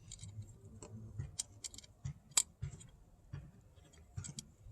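Hands working with speaker wires and their plastic connectors: scattered light clicks and rustling, with one sharper click about halfway through.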